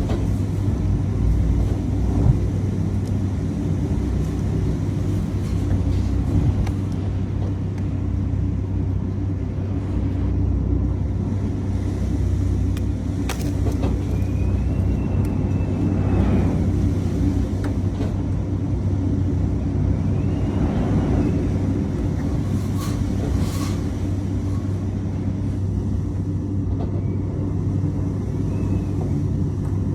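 Steady low rumble of street traffic with a constant hum underneath, and a couple of short high squeals around the middle.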